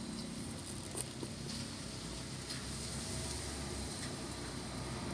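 Faint, steady low rumble of distant road traffic, with a small click about a second in.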